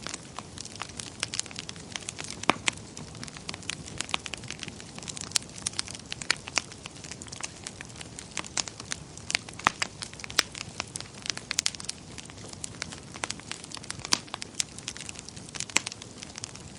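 Wood fire burning in a fireplace, with a steady soft hiss and frequent irregular sharp crackles and pops.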